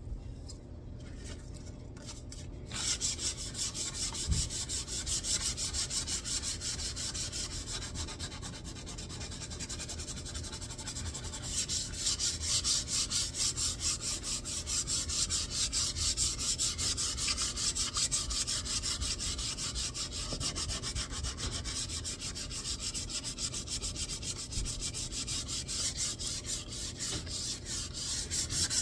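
Wood being sanded: a steady, fast rubbing and scratching that starts about three seconds in and gets louder about eleven seconds in.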